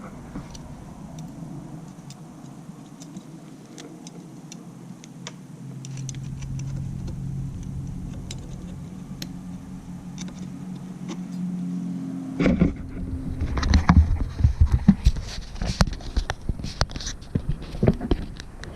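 Brake caliper and its small metal hardware being handled and fitted: scattered light clicks over a steady low hum, then about twelve seconds in a burst of louder clattering knocks and metal clinks.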